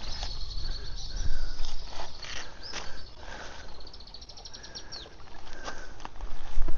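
Insects chirring in the surrounding trees, with a rapid run of evenly spaced chirps around the middle, over a low rumble.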